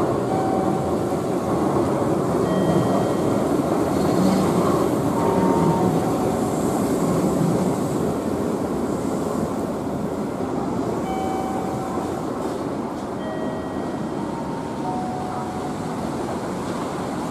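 Keihan 600-series electric train, car 602, running past on street track: a steady rumble of motors and wheels that is loudest in the first half and then eases off. Brief thin wheel squeals come now and then.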